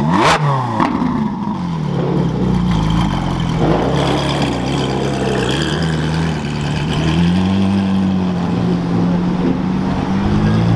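A car engine revved briefly, falling back right at the start, then running steadily, its pitch stepping up a little about seven seconds in.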